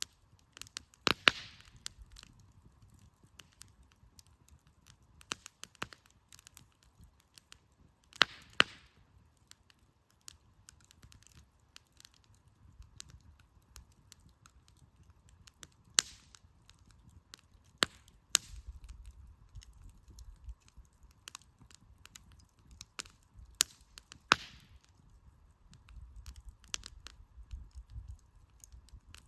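Wood campfire crackling, with sharp pops every second or so and three louder cracks, each trailed by a brief hiss, about a second in, around eight seconds and near the end.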